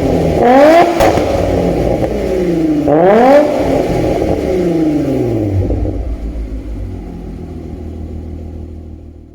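Audi A4 B5 2.8 V6 engine through a modified active exhaust, revved twice in quick blips that rise and fall, then settling back to a steady idle. The sound fades out near the end.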